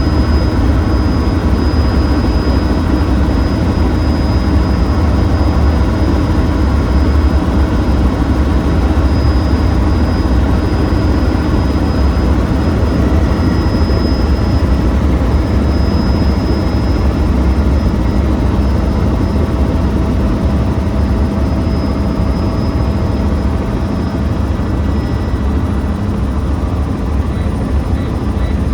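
Helicopter in flight: steady rotor and engine noise, deep and continuous, with a thin high whine above it.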